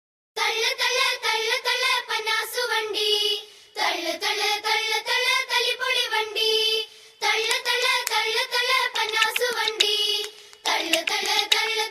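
Background music: a high voice singing a melody in phrases of about three seconds, with short breaks between them.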